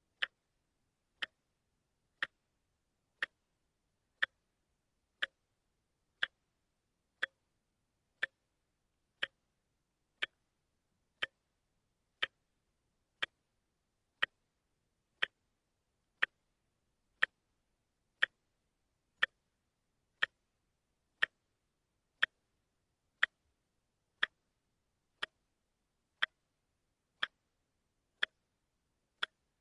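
Wristwatch ticking at a steady one tick per second, each tick a short, sharp click with silence between.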